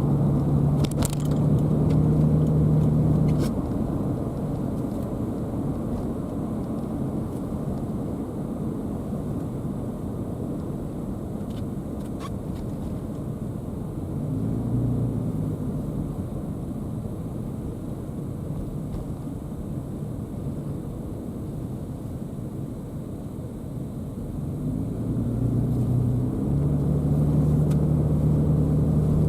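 A car being driven, with steady low engine and road rumble. A steady low engine hum is heard for the first few seconds and again near the end, and there are a few faint clicks.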